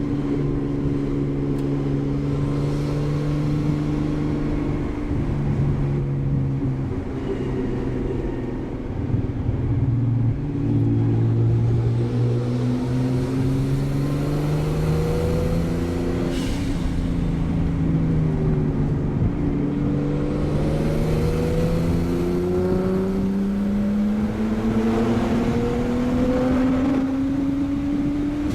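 Straight-piped Nissan RB20 inline-six in an R32 Skyline GTS-t under way. The exhaust note holds steady, drops, then climbs and falls off again several times as the car accelerates and lifts.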